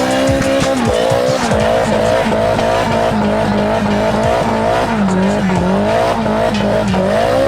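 Car engine revving hard in repeated quick rising bursts, bouncing near the top of its revs, with tyres squealing as the car skids.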